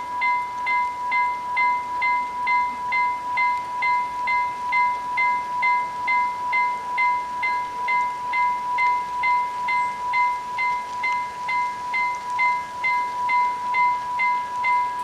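Railroad level-crossing warning bells ringing: quick, evenly spaced strikes, about three a second, over a steady ringing tone. They stop abruptly at the end.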